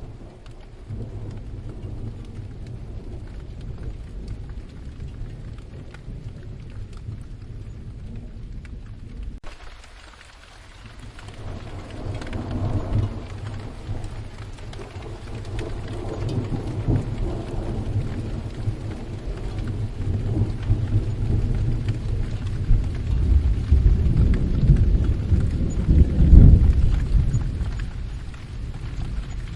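Steady rain with long rolling thunder. The rumble dips briefly about ten seconds in, then swells again and builds to its loudest a few seconds before the end.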